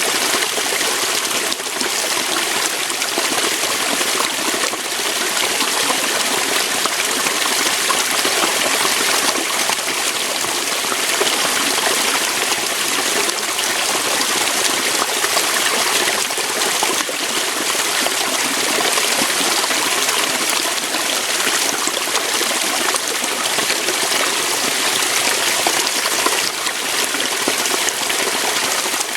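Waterfall: water pouring and splashing over rocks, a steady rushing hiss.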